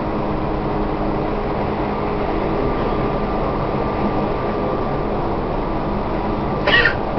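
Tobu 1800 series electric train running at speed, heard inside a passenger car: a steady rumble of wheels and motors with a constant hum. A brief high-pitched sound cuts in near the end.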